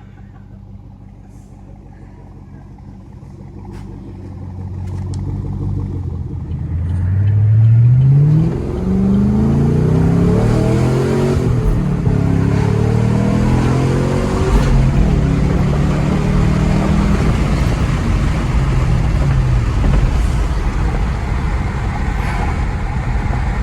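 Chevrolet Camaro SS V8 running through a newly installed SLP Loudmouth exhaust. It grows louder from about four seconds in and revs up in rising sweeps around eight seconds, then keeps running loud and steady.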